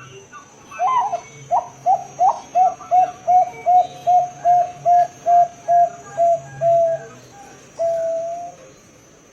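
A zebra dove (perkutut) singing one full cooing song. It opens with a few falling notes, runs into a fast even series of about a dozen short coos at roughly three a second, and ends after a short pause with one long drawn-out coo.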